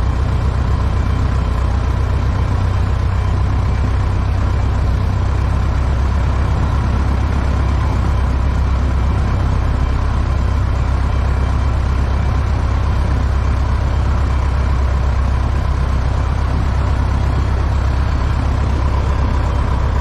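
A Cessna 120's air-cooled flat-four piston engine and propeller running steadily on a ground run, with an even, low drone.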